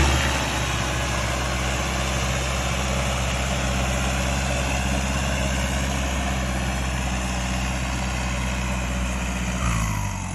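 Kubota M6040SU tractor's turbocharged diesel engine running steadily at low revs after the revs fall away at the start, with a brief change in pitch near the end.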